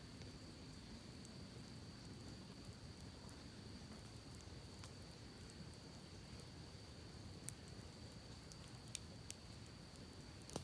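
Campfire crackling faintly, with a few sharp pops in the second half, over the low, steady rush of a creek.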